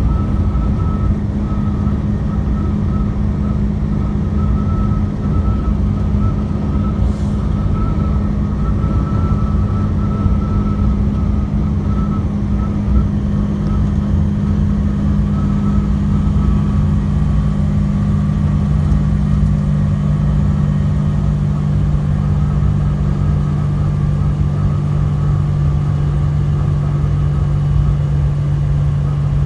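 Truck running on the road, a steady low engine and road rumble. Its hum settles to a lower pitch about halfway through.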